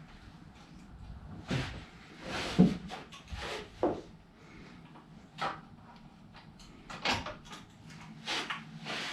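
Irregular clunks and rattles of metal parts being handled and fitted during motorcycle front-end assembly: about seven short knocks spaced unevenly, the loudest near the start and near the middle.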